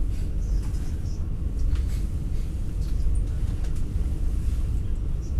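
Steady low rumble of an NS Intercity New Generation (Alstom Coradia Stream) electric train running, heard from inside a passenger coach, with a few faint clicks.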